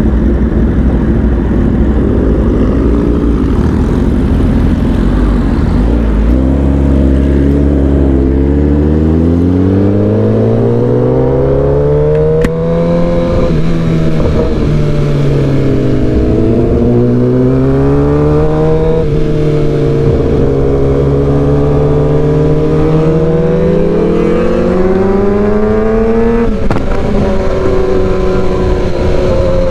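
Sport motorcycle engine pulling away and accelerating, its pitch climbing and then dropping at three upshifts, under a steady rumble of wind and road noise.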